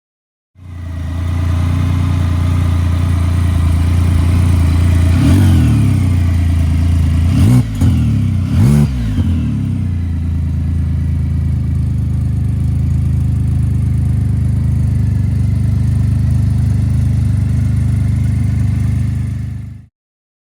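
Can-Am Spyder three-cylinder engine idling steadily through an RLS aftermarket exhaust, with three quick throttle blips about five to nine seconds in.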